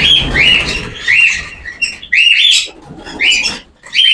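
Small caged parrots calling: a run of shrill calls, each rising and then levelling off, about two a second.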